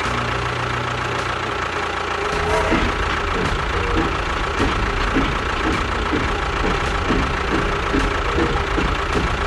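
A motor running steadily with a constant high whine. From about two seconds in, a regular knocking joins it, about twice a second.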